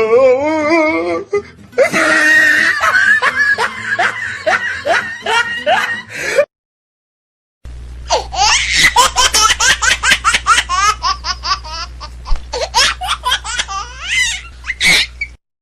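Recorded laughing sound effects: a laugh in quick pulses that stops abruptly about six seconds in, then after a second of silence a second laugh in rapid high-pitched bursts over a low hum, cutting off suddenly near the end.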